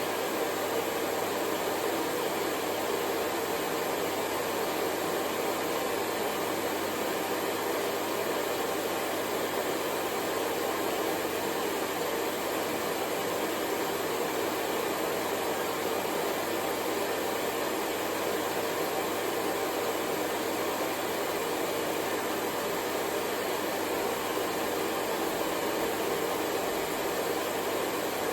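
Hair dryer running steadily: an even rush of blown air with a faint motor hum, never changing in speed or loudness.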